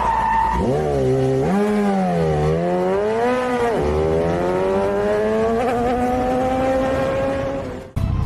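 Vehicle engine revving and accelerating. Its pitch climbs, dips about one and a half seconds in and again near four seconds as if changing gear, then rises steadily until it cuts off suddenly just before the end.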